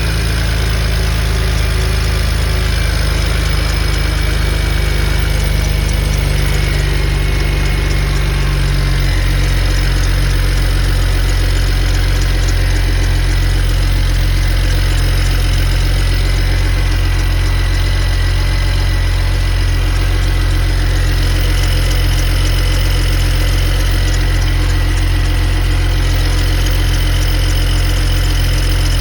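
BMW N54 twin-turbo inline-six idling steadily with a squeaking noise, which the owner wonders may come from the belt pulleys.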